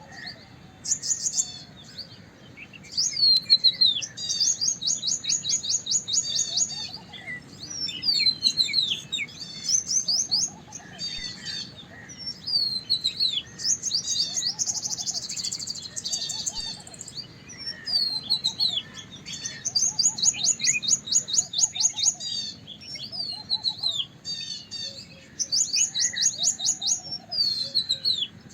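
White-browed wagtail singing a long, varied song of whistled, down-slurred phrases, broken three times by bursts of fast, rapidly repeated trill notes.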